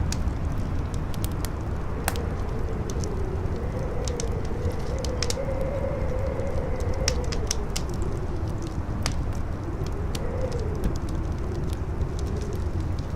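Campfire crackling with scattered sharp pops, over a steady low wind rumble. From about two seconds in, a howling wind rises and falls in pitch, fading near the end.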